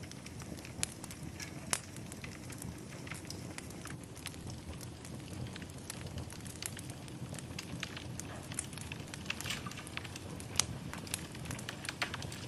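Wood fire burning in a fireplace: a steady low rush of flames with irregular sharp crackles and pops, one louder pop near the end.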